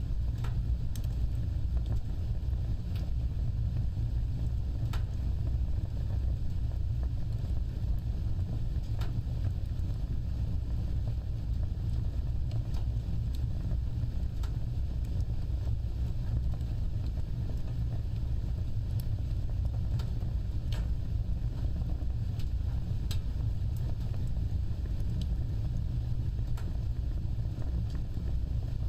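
Wood fire burning with a steady low rumble and sparse, irregular sharp crackles and pops a second or more apart.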